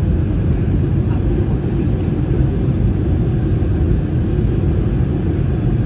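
Steady low rumble of cabin noise inside an Airbus A319 in flight: its CFM56 jet engines and the airflow over the fuselage.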